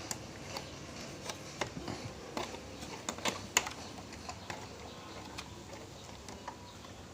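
Irregular small plastic clicks and taps from hands working the circuit boards and wire connectors inside a portable player being reassembled. The clicks come thickest in the first few seconds, with the loudest past the middle, then thin out.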